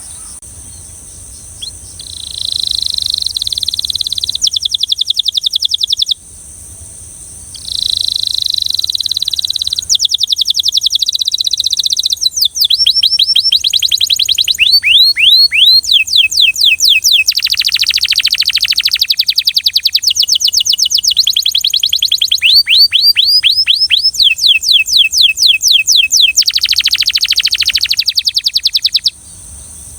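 Belgian canary singing in long, loud phrases of rapid trilled rolls and quick rising whistled sweeps. It stops briefly after one phrase, then sings almost without a break.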